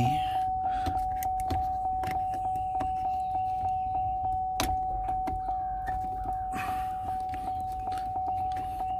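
Electronic beeper sounding one high tone in rapid pulses, several a second, without a break, with clicks and rattles of parts and wiring being handled.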